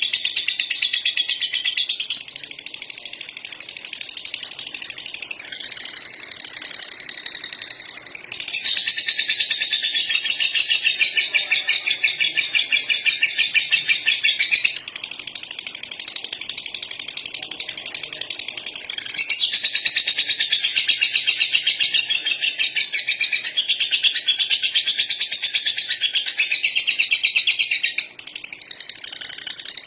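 Lovebird singing a fast, continuous high-pitched chattering song, its phrases shifting every few seconds, with a brief dip near the end.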